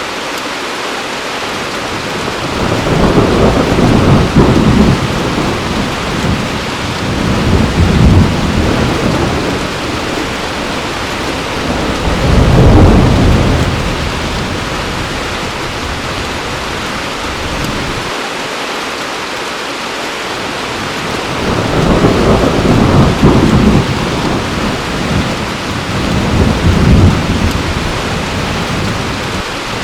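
Heavy rain falling steadily, with thunder rumbling in repeated low swells every few seconds.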